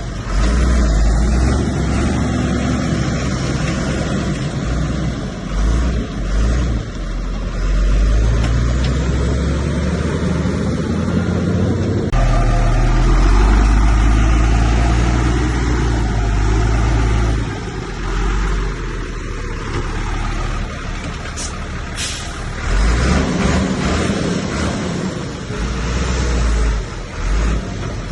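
Heavy diesel engine of earthmoving machinery working, its level rising and falling with the load. A few short, sharp high noises come about three-quarters of the way through.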